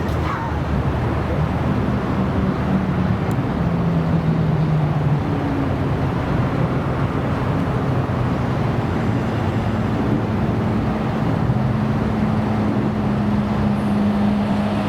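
Supercar engines idling and running at low revs, a steady rumble whose low tones shift in pitch now and then.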